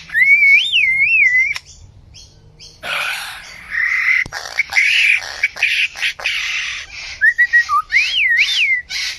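A bird singing a varied run of calls. Looping whistled notes rise and fall, a quieter pause follows about two seconds in, then a stretch of rougher, chattering calls with sharp chirps, and near the end the rising-and-falling whistles come back.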